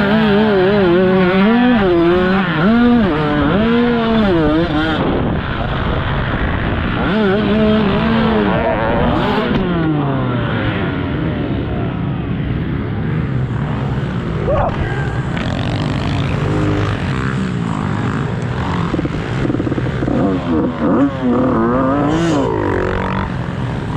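Dirt bike engines revving up and down as they are ridden, with the throttle opened and shut about once a second. About halfway through, several bikes can be heard at once, their engine notes crossing one another.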